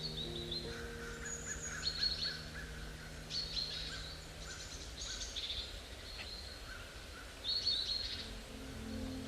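Forest songbirds chirping and trilling: short bursts of high chirps come every second or so, with a softer, lower warbling call beneath them.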